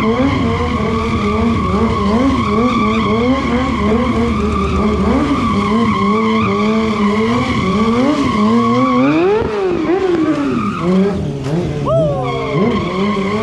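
Sportbike burnout: the engine held at high revs, its pitch bobbing up and down, over a steady squeal of the rear tyre spinning on pavement. A bigger rev rises and falls about two-thirds of the way through, then the sound eases off.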